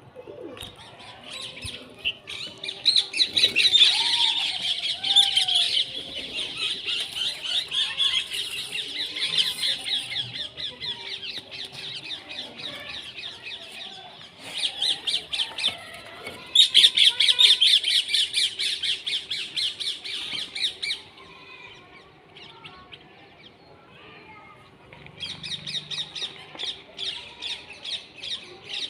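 Birds calling in long bouts of rapid, repeated high chirps, with a quieter lull about three-quarters of the way through before the chirping starts again. A faint steady hum runs underneath.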